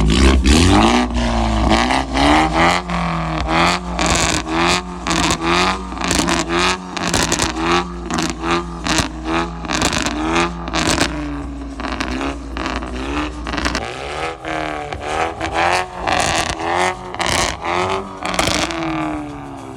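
Car engine revved hard over and over, its pitch climbing and dropping in quick repeated blips, with sharp cracks throughout.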